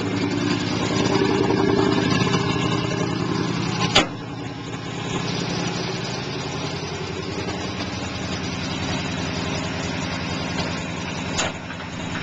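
Old car engine running just after being started, louder for the first few seconds and then settling into a steady idle. A single sharp knock comes about four seconds in.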